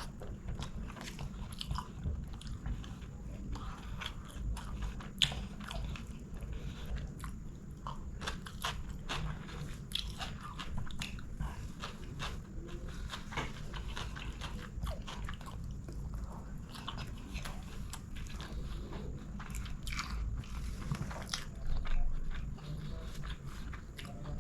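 Close-miked chewing and biting of chicken biryani, with many short, irregular mouth clicks throughout over a steady low hum.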